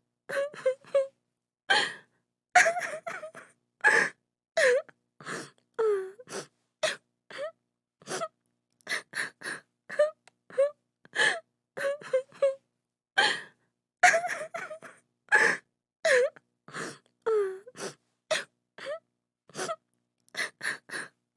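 A woman crying and sobbing in short broken bursts, with gasping breaths and wavering wails between silent gaps.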